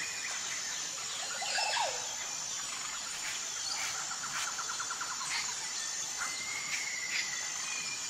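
Small wild birds chirping and singing, with a rapid trill of repeated notes about halfway through, over a steady high-pitched buzz.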